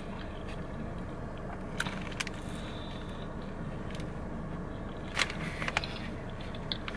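A person chewing food with a few short crunchy clicks, the strongest cluster about five seconds in, over a steady low background hum inside a car.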